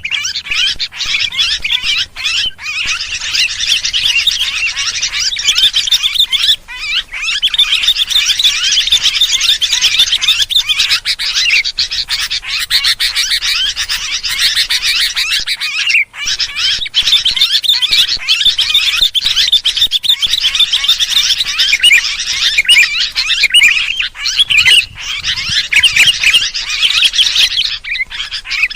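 Sooty-headed bulbuls in a dense, noisy flock chatter with rapid overlapping chirps, an agitated ('ribut') bird-lure call recording, broken by a few brief pauses.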